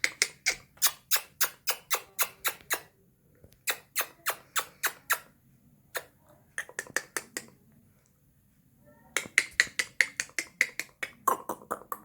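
Indian ringneck parakeet giving rapid series of short, sharp squawks, about four a second, in several runs broken by short pauses.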